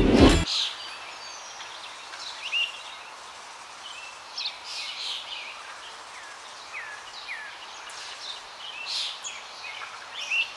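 Songbirds chirping and calling, scattered short notes and a couple of downward-sliding whistles, over a steady outdoor background. Music cuts off within the first half second.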